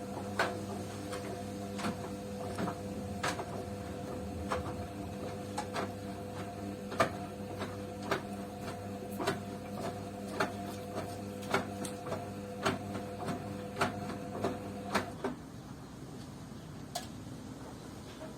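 Beko front-loading washing machine tumbling a wash: the drum motor hums steadily while the load knocks against the drum about twice a second, then the motor stops about 15 seconds in and the drum comes to rest.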